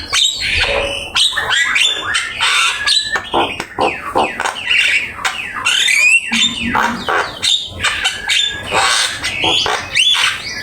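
Javan myna (jalak kebo) singing a rapid, unbroken medley of whistles, chatters and harsh squawks, the kind of masteran song used to tutor other songbirds.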